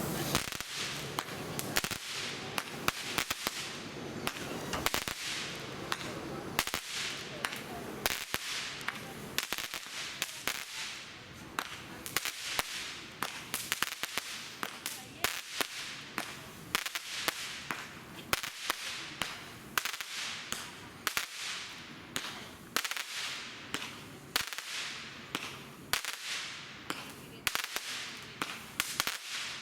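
A 200-gram, 49-shot consumer fireworks cake (Legend Fireworks 'Happy Fireworks') firing shot after shot: a steady run of sharp cracks, one or two a second, each trailed by a short fading hiss.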